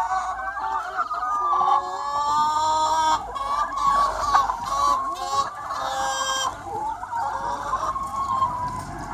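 A large free-range chicken flock clucking and calling, many hens at once with calls overlapping throughout. Louder, harsher calls stand out about two seconds in and again around six seconds in.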